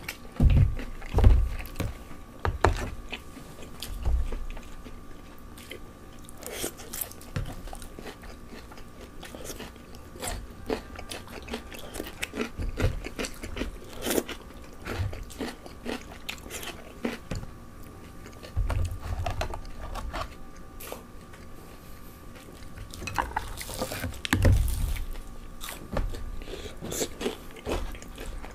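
Close-miked chewing and crunching of Korean fried chicken: many short crackly bites and mouth sounds, with a few low thumps about a second in and again near the end.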